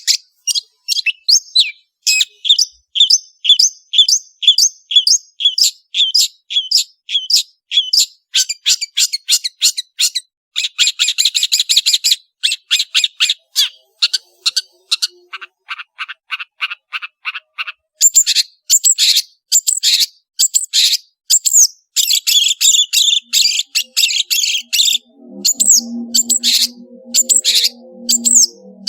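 Long-tailed shrike (cendet) singing in fast runs of rapidly repeated high chirps and trills, phrase after phrase with brief pauses. Near the end, low steady music tones fade in underneath.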